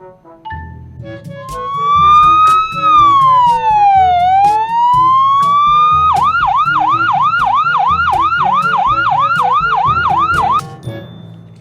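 Electronic emergency-vehicle siren: a slow wail that rises, falls and rises again, then switches about six seconds in to a fast yelp of about three sweeps a second, cutting off near the end. Background music plays underneath.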